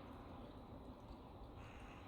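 Faint, steady hum of distant road traffic. A faint high-pitched call starts near the end.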